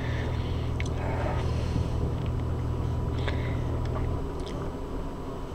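Steady rumble inside an Amtrak Auto Train passenger car as the train picks up speed, with a few sharp clicks and a low hum that cuts off about four seconds in.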